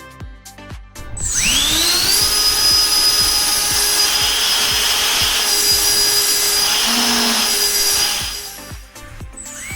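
A 70 mm electric ducted fan on a 2500 kV brushless motor spinning up with a rising whine about a second in, then running at high speed with a loud, steady rushing whine for about seven seconds before winding down. It starts to spin up again near the end. Background music with a beat is heard briefly at the start.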